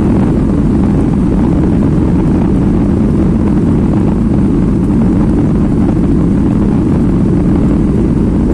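Steady, loud rumble of a Boeing 737 MAX 8's CFM LEAP-1B engines and the airflow, heard from inside the passenger cabin with the engines at high power.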